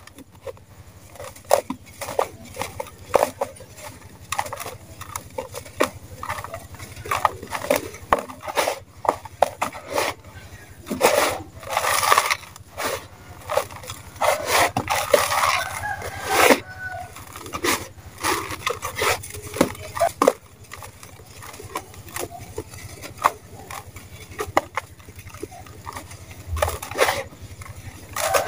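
Dry red sand-cement chunks crumbling and crunching in a tub, as many irregular gritty crackles and crunches.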